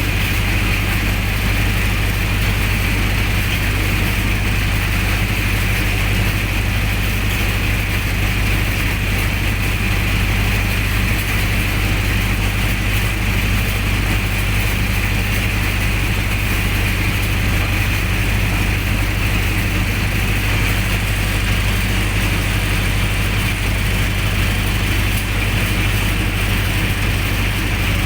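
Generator set's engine running steadily at a constant speed, with a mechanical clatter over a low hum.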